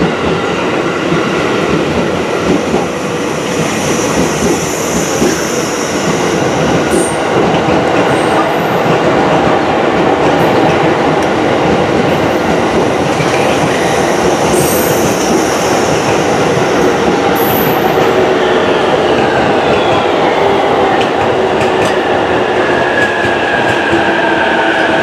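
JR 205 series 5000 electric commuter train running slowly through the station tracks, with wheels rolling, clacking and squealing on the rails. Near the end a second electric train's motor whine falls in pitch as it slows.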